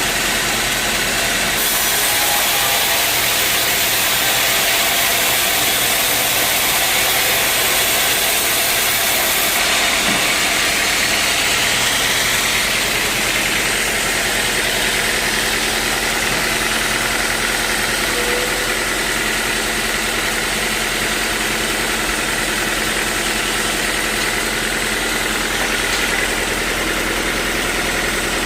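Sawmill machinery running steadily, an engine drone under a continuous hiss.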